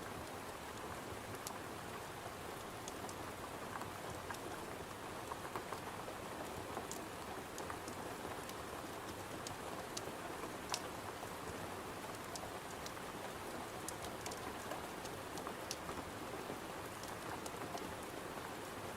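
Steady rain pattering against a window, with scattered sharp crackles from a wood fire, one louder snap about eleven seconds in.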